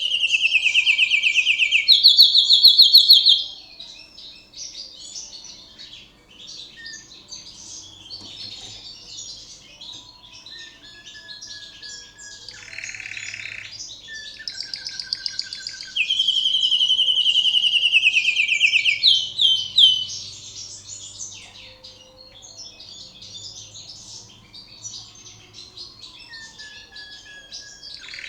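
Yellow agate opal canary singing a long song. It is loud at the start and again about 16 seconds in, where it runs fast rolls of rapidly repeated notes that fall in pitch, with softer varied twittering between.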